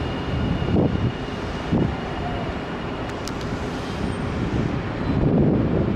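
Nankai electric train running along the platform: a steady low rumble with two short wheel thumps about one and two seconds in.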